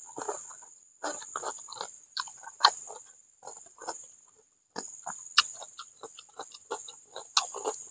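Close-miked chewing and lip-smacking as a man eats a mouthful of fried catfish, rice and raw vegetables by hand: many short, irregular wet smacks and crunchy clicks, with a brief pause a little past the middle.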